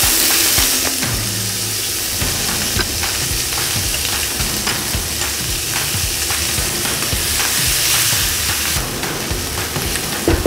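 Diced red pepper, sliced chillies, garlic and ginger sizzling in hot oil in a non-stick frying pan, with a spatula clicking against the pan as it is stirred. The sizzle is loudest as the pepper first hits the oil and rises again near the end.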